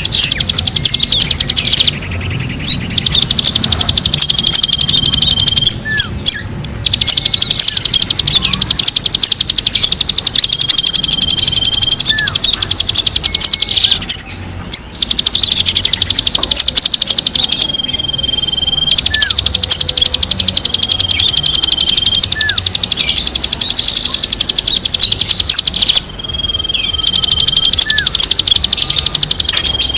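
Songbird song: rapid, high chattering runs lasting several seconds each, broken by short pauses, with short steady whistled notes and brief swooping notes mixed in.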